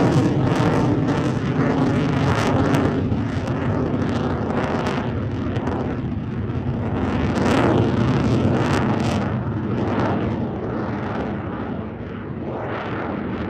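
Eurofighter Typhoon fighter jet climbing away after a vertical takeoff, its twin EJ200 jet engines giving a loud, continuous roar that slowly fades.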